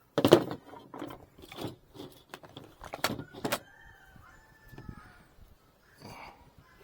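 Wooden beehive frames being knocked and worked apart by hand: a run of sharp knocks and scrapes, the loudest just after the start, then a brief thin squeak.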